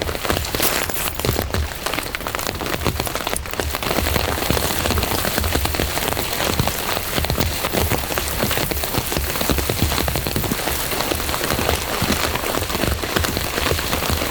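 Steady heavy rain, a dense patter of drops hitting a surface close by.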